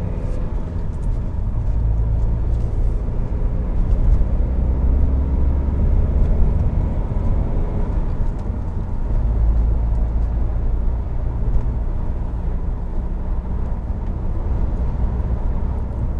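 Road and engine rumble inside the cabin of a BMW E60 5 Series on the move. No dash creak is heard: the creaking came from a loose front strut brace that has now been bolted tight.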